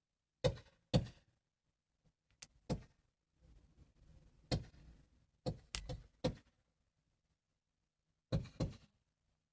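A series of about ten short, sharp thuds at irregular intervals, several coming in quick pairs, with quiet gaps between.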